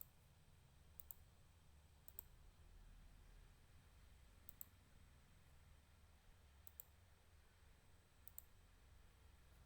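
Faint computer mouse clicks, about six spread a second or two apart, several as quick double clicks, over a low background hum.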